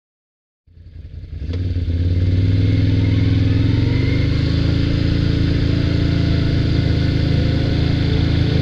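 ATV engine running steadily, fading in from silence about a second in.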